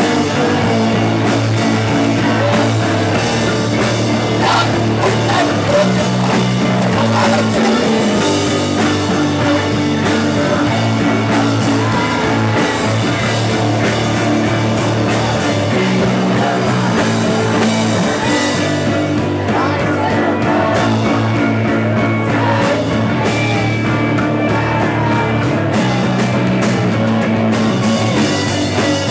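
Live rock band playing loudly, with electric guitar and a bass line that shifts to a new note every couple of seconds, and singing over it.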